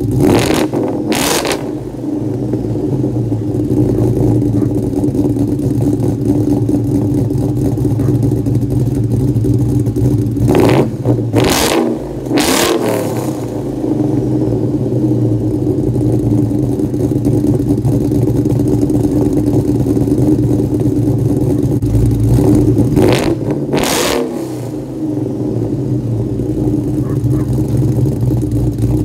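2004 Mustang SVT Cobra's supercharged 4.6-litre V8 idling, heard at its dual tailpipes, with the throttle blipped in short revs: twice near the start, three times around the middle and twice near the end, the revs falling back to idle after each.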